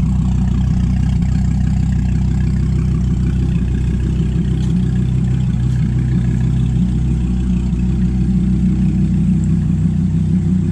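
2016 Dodge Viper's 8.4-litre V10 idling steadily.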